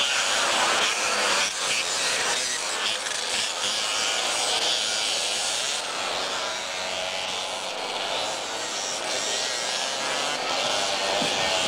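Motocross motorcycle engines buzzing, their pitch wavering up and down as they rev.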